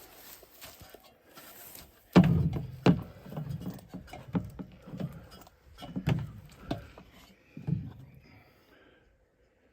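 Irregular heavy knocks and thuds, about eight over several seconds; the first, about two seconds in, is the loudest, and they die away near the end.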